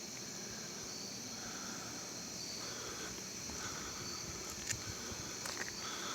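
Insects chirping in a steady high-pitched drone, with short repeated chirps over it. A few faint clicks come in the second half.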